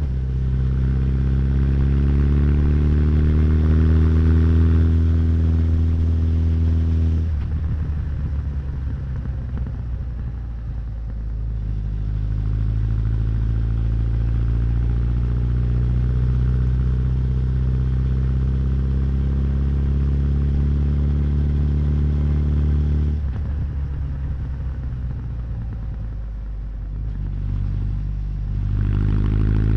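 Honda CB1100's air-cooled inline-four running under way, its pitch rising slowly as it pulls. The throttle closes about seven seconds in and again about 23 seconds in, with the engine picking up again each time and once more near the end.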